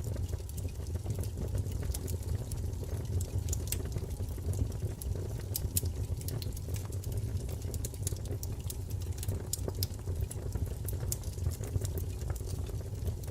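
Wood fire crackling: frequent irregular sharp pops and snaps over a steady low rumble of the burning logs.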